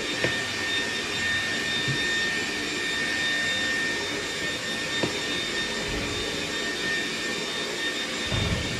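Hair dryer running steadily: a rushing airflow with a constant high whine from its fan motor.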